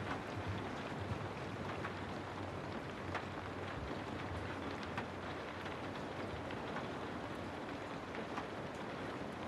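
Steady rain falling: an even hiss with scattered sharper drops ticking through it.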